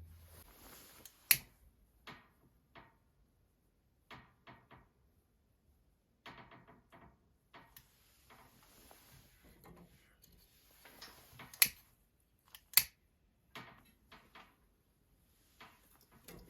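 Irregular light knocks, taps and clicks of things being handled in a small room, with three sharp, louder clicks: one about a second in and two close together about two-thirds of the way through.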